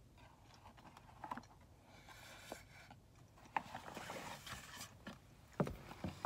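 Soft chewing and breathing around a mouthful of hot takoyaki, with a few light clicks and rustles from a paper takeout box and chopsticks being handled, the sharpest click near the end.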